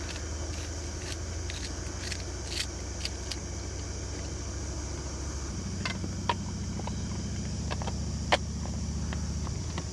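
A steady low engine hum, like a vehicle idling, which shifts slightly about halfway through, with scattered light clicks and taps over it.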